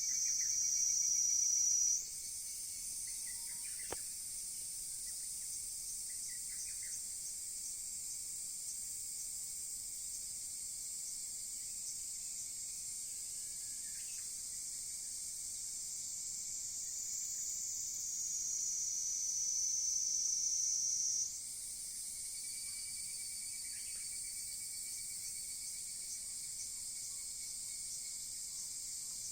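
A chorus of insects keeps up a steady high-pitched buzzing. A louder high tone swells over a few seconds and drops away abruptly about two seconds in, then swells again and breaks off near the end of the second third, with a few faint chirps in between.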